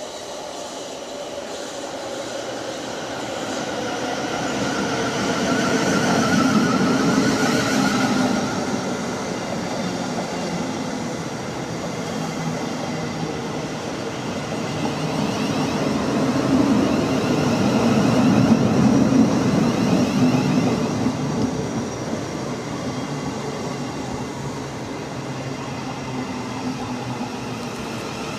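South Western Railway electric multiple unit passing through at speed: a steady rumble of wheels on the rails with a faint electric whine above it. It grows louder as the train nears and swells twice as the long train runs past.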